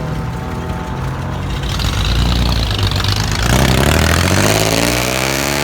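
A show vehicle's engine rumbling as it drives out, then revving up with a rising pitch from about three and a half seconds in.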